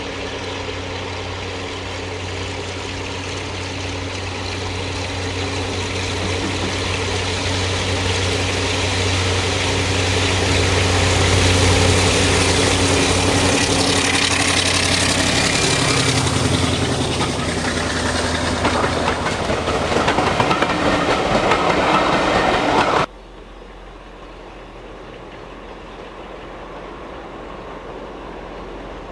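Diesel locomotive running past at the head of a train, its engine and the rolling train steadily growing louder to a peak and holding there. About 23 seconds in the sound cuts off abruptly to a much quieter train sound that slowly swells.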